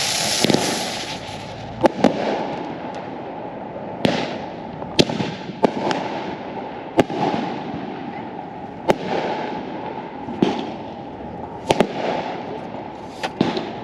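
Consumer fireworks going off. A hissing rush at the start gives way to a dozen or so sharp bangs at irregular intervals, a few of them in quick pairs, over a steady background crackle of more fireworks.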